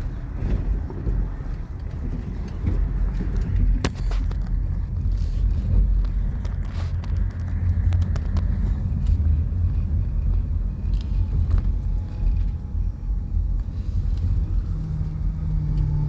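Steady low vehicle rumble with a few sharp knocks; a steady low hum joins near the end.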